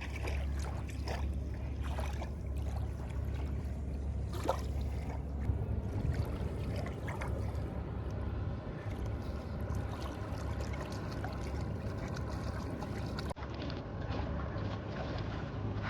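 River water lapping and splashing close by, with scattered small splashes over a steady low rumble.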